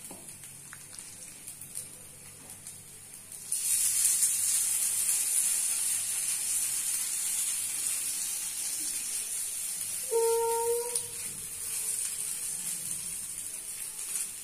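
Hot oil sizzling in a non-stick pan as potato and sabudana-flour dough fries. The hiss jumps up suddenly about three and a half seconds in, when a fresh spoonful of dough goes into the oil. About ten seconds in, a brief pitched tone sounds for about a second.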